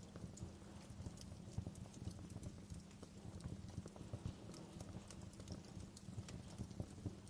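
Wood fire burning in a fireplace: a low steady rumble of flames with frequent small, irregular crackles and occasional sharper pops.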